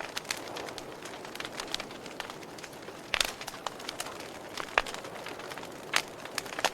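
Campfire burning, wood crackling with irregular sharp pops over a steady hiss; the loudest pops come about three, five and six seconds in.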